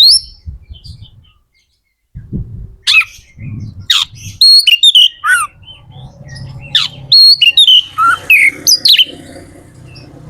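Oriental magpie-robin singing loud, varied whistled phrases mixed with sharp downslurred notes. The song stops for a moment after the first second and starts again about two seconds in, over a low background rumble.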